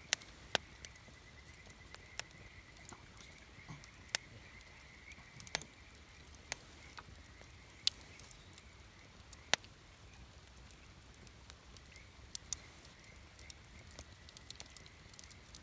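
Wood campfire crackling: irregular sharp pops and snaps of burning wood, a few louder ones around the middle.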